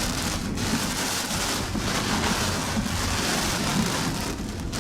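Heavy rain from a severe thunderstorm beating down steadily, with a low rumble underneath.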